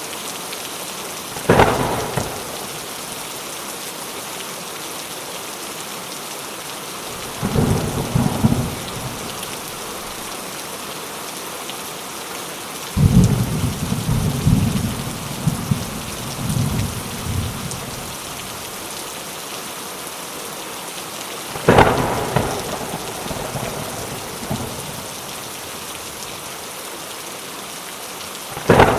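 Steady heavy rain with thunder. Sharp cracks come a second or two in, a little past two-thirds through and at the very end. Lower rumbles come about a quarter of the way in, and a longer rolling rumble lasts several seconds around the middle.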